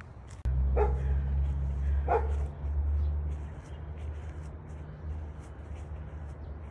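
Two short, high calls from a pet animal about a second apart, over a low hum that starts suddenly just before them.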